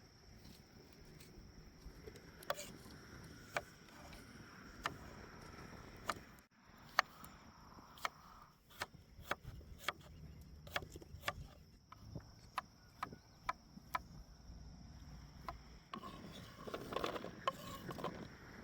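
Irregular sharp knocks and clicks, a few each second, over a steady high insect drone, with a busier patch of knocking near the end.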